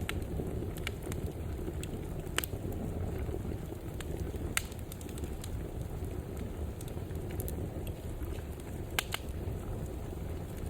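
Wood fire burning in a fireplace: a steady low rumble of flames with scattered sharp crackles and pops, the loudest about two, four and a half and nine seconds in.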